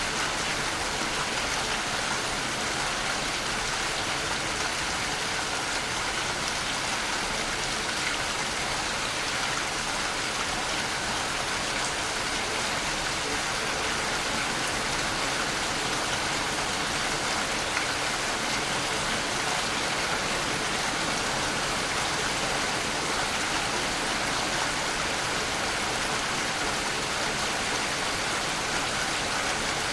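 Waterfall: a steady rush of falling water, an even hiss that neither rises nor falls.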